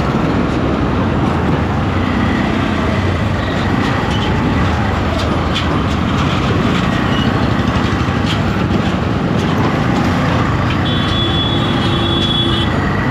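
Steady, loud road noise from riding a motorcycle in traffic: engine and wind noise with no breaks. A short high steady tone, like a distant horn, sounds for under two seconds near the end.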